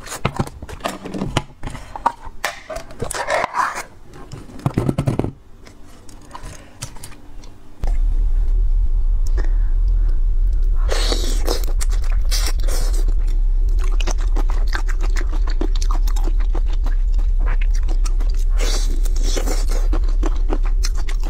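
Plastic lid of a jar of sweet-and-spicy marinated shrimp being handled with clicks and scraping, then whole shrimp crunched and chewed up close. About eight seconds in, a loud steady low hum starts and stays under the chewing.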